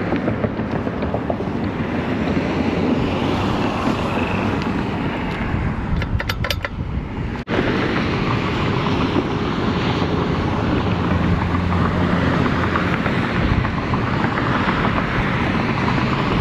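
Wind buffeting the microphone while riding, a steady rushing noise. There is a short cluster of ticks about six seconds in, and the sound cuts out for an instant at about seven and a half seconds.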